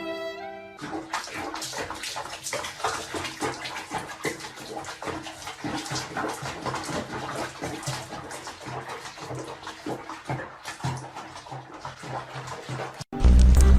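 Water splashing and running, with many small irregular splashes. Music plays briefly at the start and cuts in loudly near the end.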